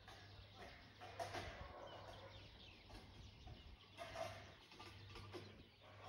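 Faint outdoor ambience with distant birds calling now and then, most clearly about a second in and again about four seconds in, over a faint low steady hum.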